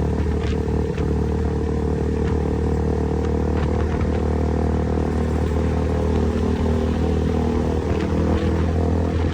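KTM motorcycle with an aftermarket exhaust running at steady revs, a constant engine drone with a few faint ticks and rattles.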